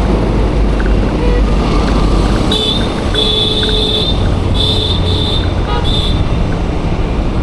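Road traffic with a steady low rumble of passing vehicles, and a high-pitched vehicle horn sounding four times in short and longer toots, from about two and a half to six seconds in.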